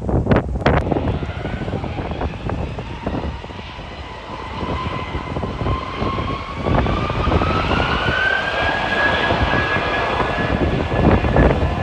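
Airliner engines whining, the pitch rising steadily and then levelling off, over heavy wind buffeting the microphone.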